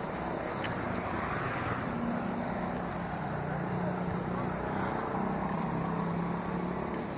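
An engine running steadily under a rushing noise, with one sharp click about half a second in.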